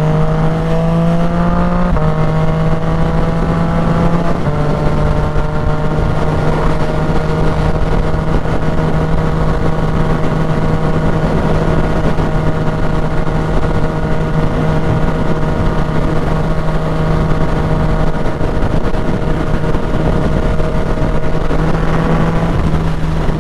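Yamaha motorcycle engine accelerating hard, its pitch rising and dropping at two gear changes in the first five seconds, then running at a steady cruising pitch, and starting to rise again near the end. A constant low rush of wind noise runs under it.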